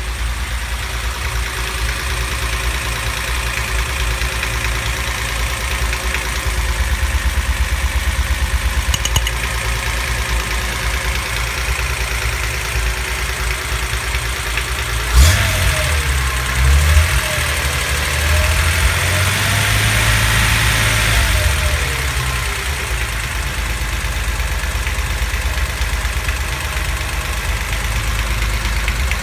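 Car engine idling with a knock that the owner locates in cylinder 5. About halfway through it is revved up and down a few times, then settles back to idle.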